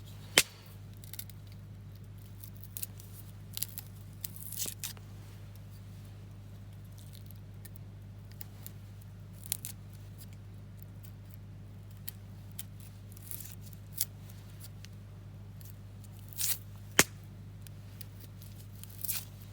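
Knife cutting garlic on a cutting board: irregular sharp knocks and short slicing and scraping sounds, a few seconds apart, over a steady low hum.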